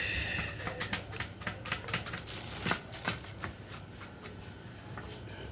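Kitchen knife chopping onion on a cutting board: a quick, irregular run of light taps, several a second, with one louder knock midway.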